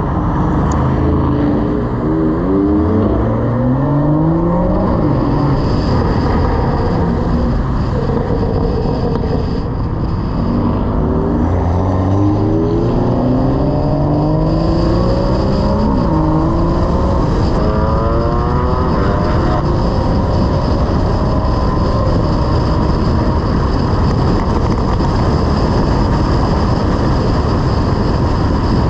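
Car engine accelerating hard several times, its pitch climbing about two seconds in, again from about eleven seconds with a drop and fresh climb near sixteen seconds, and once more around seventeen to twenty seconds, over loud steady road and wind noise.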